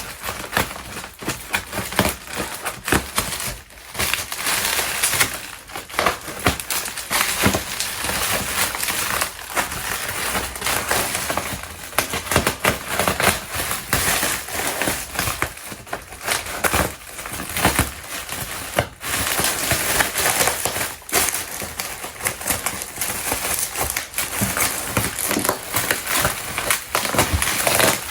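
Packaging being unwrapped by hand: paper or plastic wrap crinkling and cardboard rustling, broken by frequent small clicks and knocks.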